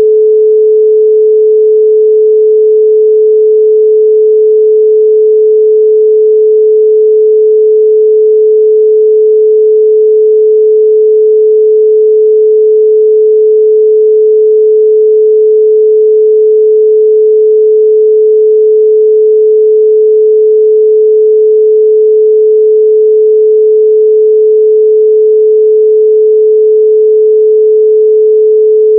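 A steady 432 Hz pure sine tone, one unwavering pitch held at constant loudness.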